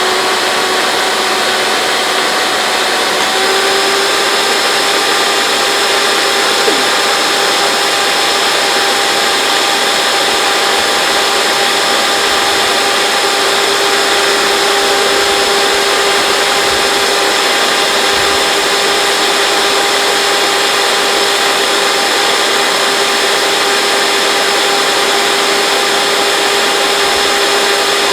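Hoover Dimension Supreme upright vacuum cleaner's motor running steadily with a constant high whine over a rushing air noise; the whine rises slightly in pitch a few seconds in, then holds.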